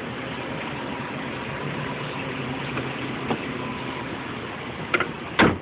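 Car engine idling with a steady hum while the air conditioning is being recharged with refrigerant. Two sharp knocks near the end, the second one louder.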